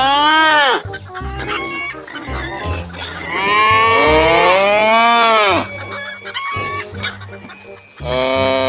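Long, drawn-out farm-animal calls over background music with a beat. Two calls rise and fall in pitch: a short one just after the start and a longer one from about three to five and a half seconds. A steadier call begins near the end.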